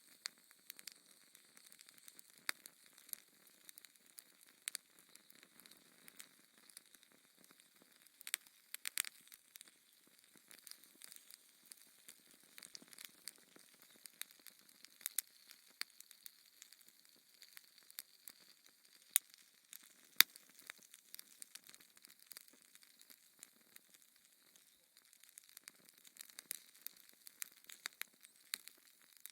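Wood fire crackling in a fireplace: irregular sharp pops and snaps over a faint hiss, with two louder pops a second apart about two-thirds of the way through.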